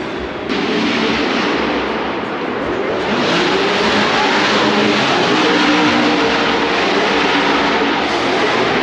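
Race car engines revving, loud and continuous, in a dense rushing roar whose pitch wavers and glides up and down. It grows louder about half a second in and again about three seconds in. These are most likely drift cars running at Formula Drift.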